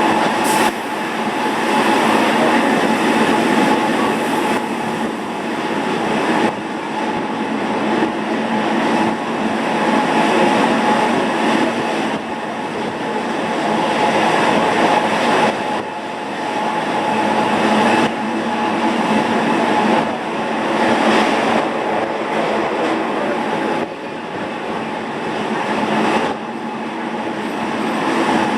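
Electric rack-railway train of the Gornergrat line climbing from Zermatt, running steadily with a constant whine over its rolling noise and a few light knocks.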